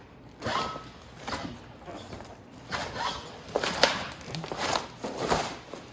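Footsteps, scuffs and irregular knocks as a motorcycle is rolled off its shipping crate base, the loudest knock a little past the middle.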